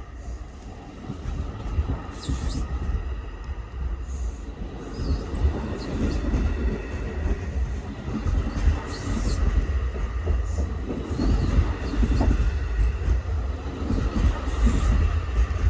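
Train running on the rails: a heavy low rumble that grows louder a few seconds in, with short high-pitched squeals every second or two.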